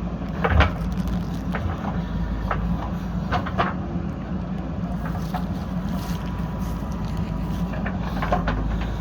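JCB backhoe loader's diesel engine running steadily under work, with several short knocks from the machine, the loudest about half a second in.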